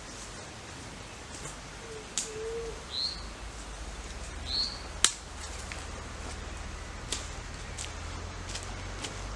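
Two short bird chirps about a second and a half apart, among a few sharp clicks or snaps, the loudest about halfway through. A low steady rumble comes in about a third of the way in.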